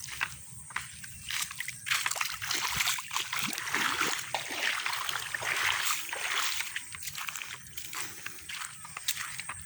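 Water sloshing and splashing with scattered small clicks, loudest through the middle.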